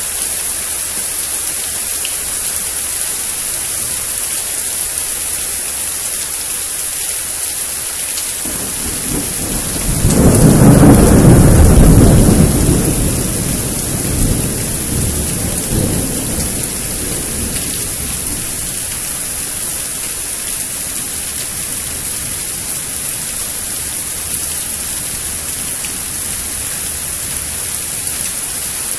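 Steady rain hiss with a thunder rumble that builds about nine seconds in, is loudest for a few seconds, then rolls away in fainter rumbles.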